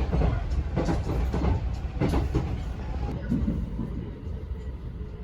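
Steady low rumble of a moving train heard from inside the carriage, with faint voices over it in the first half, fading somewhat near the end.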